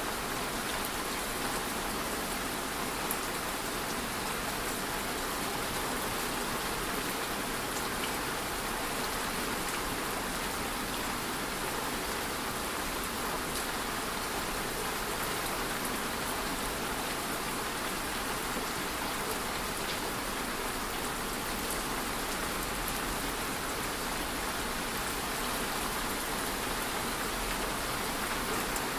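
Steady rain falling on a surface, an even patter with scattered drop ticks.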